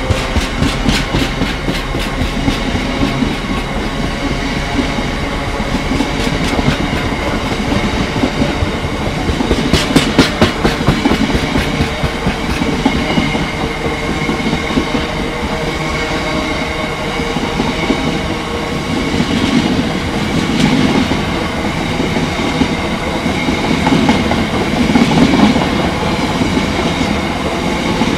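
Freight train wagons rolling past, the wheels clacking over the rail joints in quick clusters of clicks near the start and again about ten seconds in, over a steady rumble and a faint steady whine.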